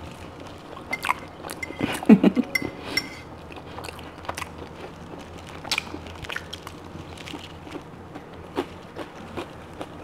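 Close-miked eating: biting and chewing roast rack of lamb off the bone, with many small irregular mouth clicks and smacks.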